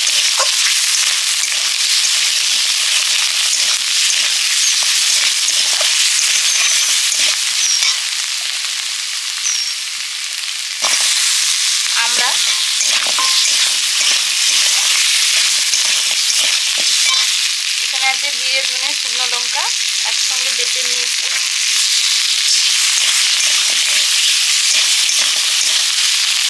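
Potato pieces, hog plums and green chillies frying in oil with chilli powder in a kadai, sizzling steadily while a flat spatula stirs them and scrapes against the pan. The sizzle dips briefly and comes back louder about eleven seconds in.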